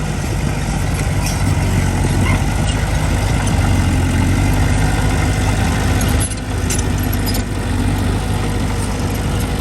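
Heavy diesel engine of earthmoving machinery running steadily. Its level dips briefly twice in the second half, with a few light clinks around the first dip.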